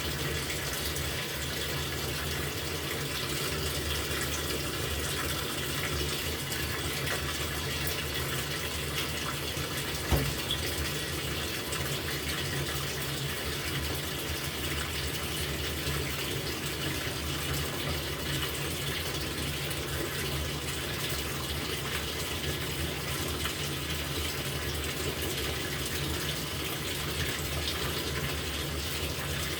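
LG top-loading washing machine filling its drum with water, a steady rush of inflowing water. A single short knock sounds about ten seconds in.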